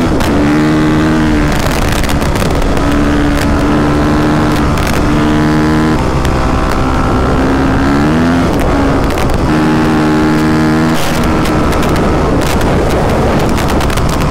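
Single-cylinder dirt bike engine under way on a trail ride. The engine holds a steady note, lets off and picks up again several times, and revs up once about eight seconds in.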